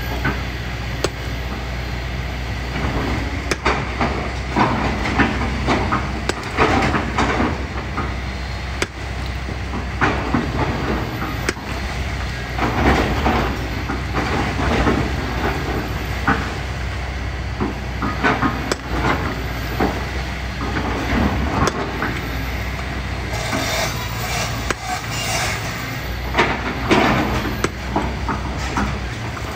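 Kobelco excavator's diesel engine running steadily while the bucket digs and scrapes through sand and gravel, with frequent irregular knocks and clatter of stones striking the bucket and each other.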